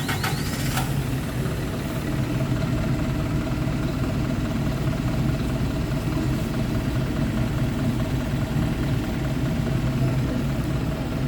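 Isuzu Erga city bus's four-cylinder turbo diesel engine idling steadily just after being started, with a brief sharp noise in the first second.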